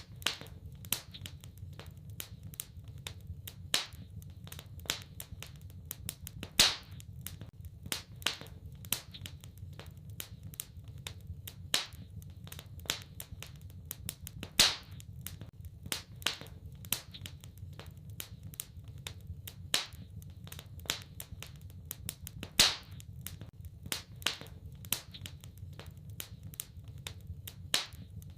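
Wood fire in a fireplace crackling: many small irregular snaps, with a few louder pops, over a low steady rumble.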